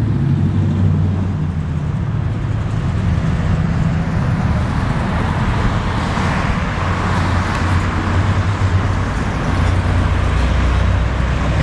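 Engines of classic cars rumbling as they roll slowly past, with a steady low note throughout. A louder rushing swell about halfway through is one car going by close.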